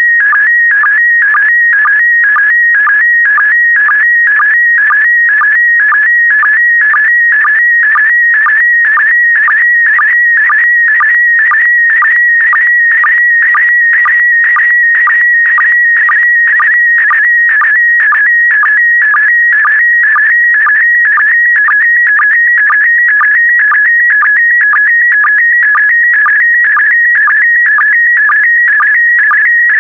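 Slow-scan TV (SSTV) image signal in PD120 mode: a loud, warbling electronic tone that shifts in pitch around 2 kHz as it carries the picture's brightness, broken by short lower sync blips about twice a second, one for each pair of image lines.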